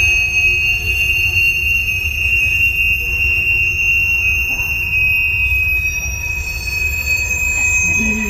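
Empty phosphate hopper cars rolling past, their wheels rumbling steadily on the rails with a sustained high-pitched wheel squeal.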